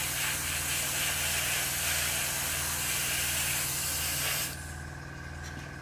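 Primer being sprayed onto a plastic scale model, a steady hiss that cuts off about four and a half seconds in. A steady low hum runs underneath.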